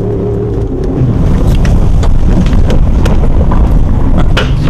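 A pickup truck or SUV driving hard over rough off-road ground: engine and tyre rumble with wind buffeting the microphone and many short knocks and rattles, getting louder about a second in.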